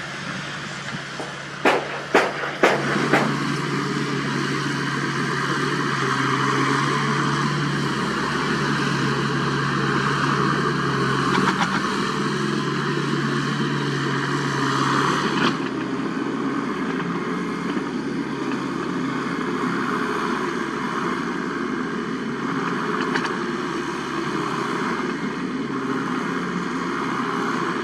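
Construction-equipment diesel engine running steadily, with a quick cluster of four or five sharp knocks about two to three seconds in.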